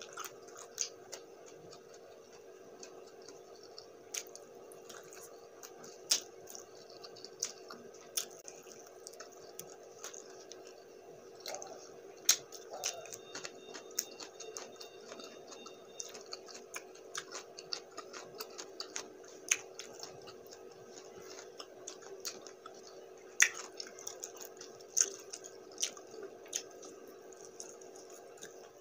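Close-up mouth sounds of a person eating saucy spicy buffalo wings: wet chewing, lip smacks and sharp little clicks scattered irregularly. A faint steady hum runs underneath.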